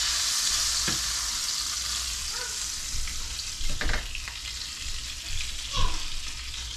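Corn-flake-breaded catfish frying in butter and oil in a skillet: a steady sizzle that slowly fades. A few short scrapes and knocks of a wooden spatula against the pan come about a second in, around four seconds and near the end.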